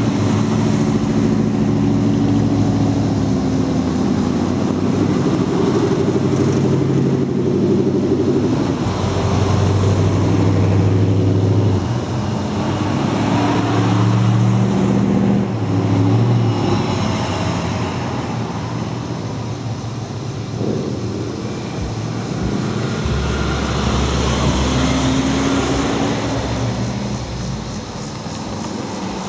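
Car engines running at low speed, one after another. The pitch steps up and down every few seconds as different cars pass, and a deeper engine sound comes in for a few seconds near the end.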